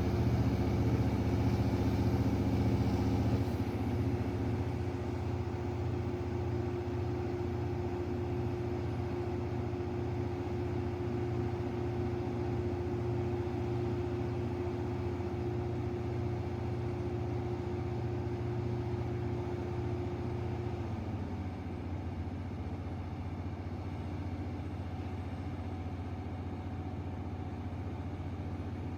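A large DDC/MTU diesel engine driving a 1020 kW Kohler generator set, running with a steady low hum. It drops a little in loudness and changes tone about three seconds in, and its tone shifts again about 21 seconds in.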